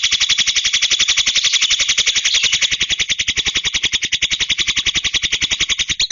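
Javan myna giving a loud, harsh, machine-like rattle of about twelve even pulses a second, stopping abruptly near the end.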